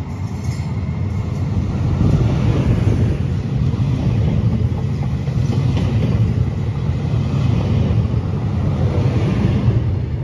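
Trenitalia ETR104 'Pop' regional electric train running past along the platform. Its wheels on the rails make a steady loud rumble that builds over the first two seconds and eases off near the end.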